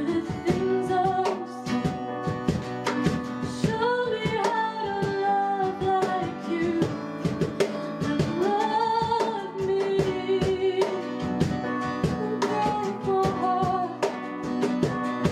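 Worship song: a voice singing a melody over strummed guitar chords.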